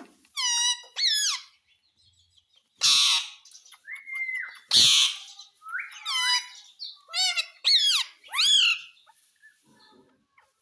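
Pet parrot calling: a run of short whistled calls that swoop down in pitch, with two loud harsh screeches about three and five seconds in.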